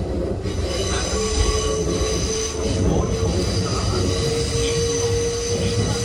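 Kintetsu local train running, heard from inside the car: a steady rumble of wheels on the rails, with steady high whining tones and a squeal of the wheels on the curving track that sets in about a second in and holds again from about two-thirds of the way through.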